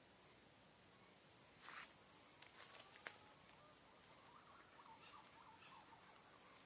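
Steady high-pitched drone of insects, like crickets, with a few faint chirps about halfway through.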